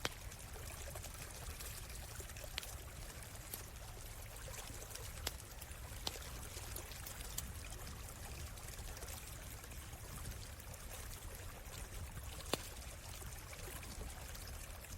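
A stream flowing steadily, with a campfire crackling in a few sharp single pops, the loudest near the end.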